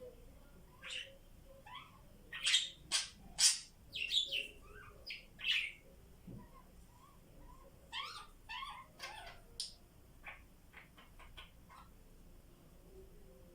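Budgies chirping and calling in short, sharp bursts, loudest in a cluster of calls a few seconds in, with a second burst of chirps later before they fall quiet.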